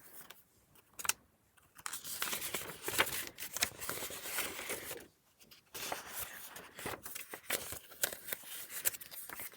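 Paper pages and tucked-in cards of a handmade junk journal rustling and crinkling as they are handled and turned, with a single click about a second in and a short pause a little past halfway.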